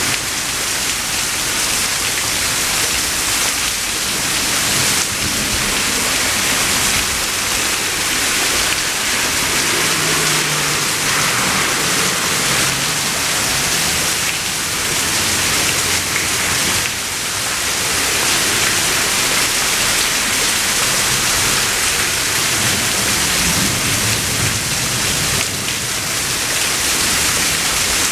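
Steady heavy rain during a thunderstorm, with faint low rumbles of distant thunder at times.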